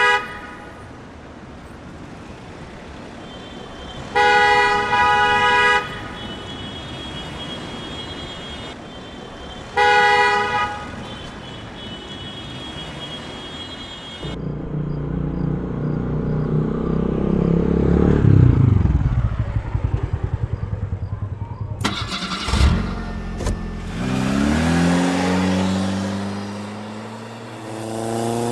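A vehicle horn honks three times, spaced several seconds apart. Then an engine runs with a low rumble, a falling sweep, a brief rattle and rising revs near the end.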